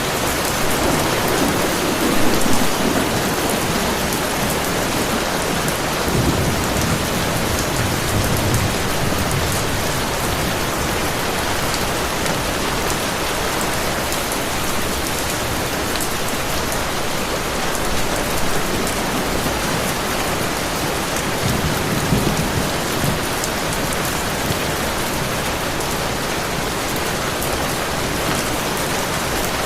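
Heavy rain falling steadily as a dense, even hiss, with low rumbles of distant thunder swelling three times: near the start, a few seconds later, and again about two-thirds of the way through.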